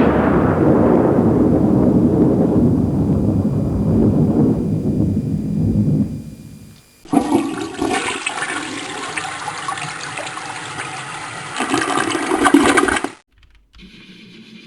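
Toilet flushing: a loud rush of water that fades and drains away over about six seconds, then a second stretch of rushing water lasting about six seconds.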